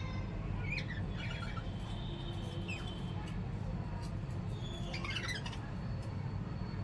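Small pet parrots squawking and chirping in short bouts about a second in, around three seconds and again near five seconds, over a steady low hum.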